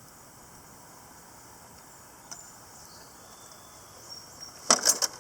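Faint steady chirping of crickets or similar insects in the background. There is a single click about two seconds in and a loud burst of knocks and rattles near the end.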